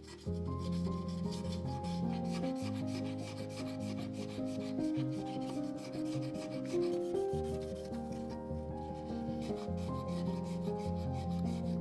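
Rapid back-and-forth scrubbing strokes of a brush on sooty fireplace surfaces, pausing briefly about two-thirds of the way through, over soft background music with slow, held notes.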